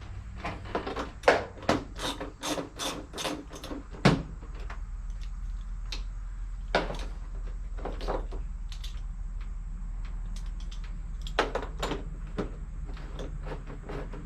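Hand tools knocking and clicking on metal parts during engine-bay teardown: a quick run of sharp clicks in the first few seconds, then scattered knocks, over a steady low hum.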